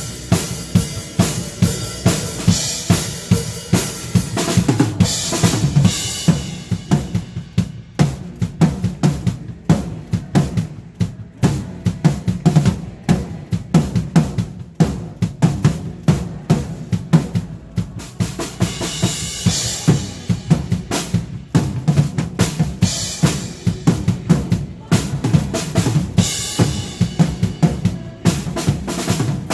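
Drum kit played steadily to a praise song, kick and snare keeping a regular beat. Cymbals ring out through the first few seconds and again in two stretches near the end, with a drier, sparser groove in between.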